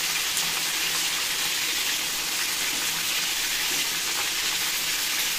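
Green-marinated chicken pieces shallow-frying in hot oil in a pan, a steady sizzle.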